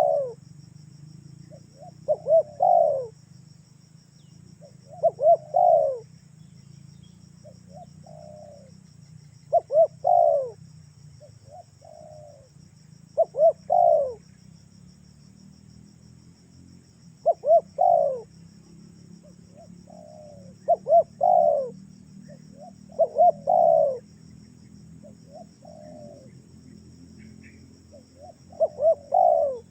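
Spotted dove cooing over and over, each phrase a couple of short coos followed by a longer one, repeated every few seconds. Steady insect trilling runs underneath.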